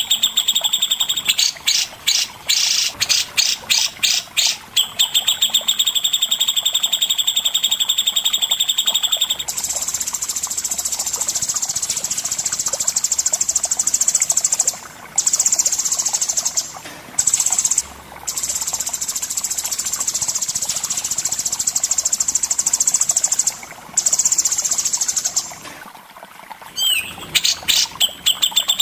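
Songbird singing high, very fast trills. There are short pulsed bursts at first, then one long unbroken trill lasting most of the time with a few brief breaks, and short bursts again near the end: the rapid 'besetan' style of song used in masteran tutor recordings.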